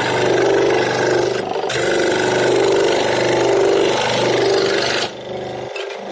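Electric power tool working wood with a steady motor tone and a grinding, rasping noise, cutting off suddenly about five seconds in, leaving a quieter hum.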